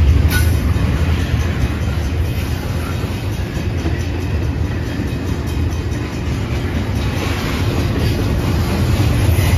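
Intermodal freight train cars rolling through a grade crossing, a steady low rumble with wheels clattering over the rails and a sharp clank about a third of a second in. The crossing's mechanical bell rings along with it.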